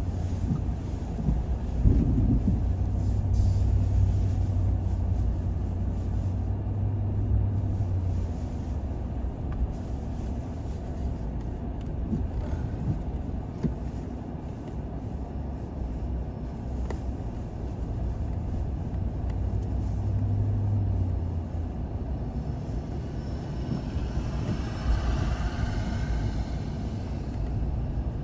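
Car driving along a road: a steady low rumble of engine and tyre noise, with a low hum that swells and fades.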